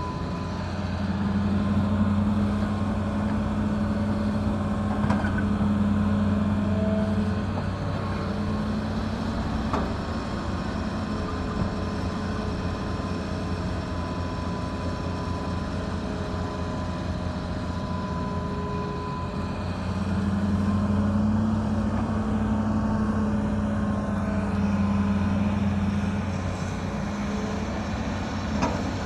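Excavator's diesel engine running steadily, working harder for several seconds twice: about a second in and again about twenty seconds in.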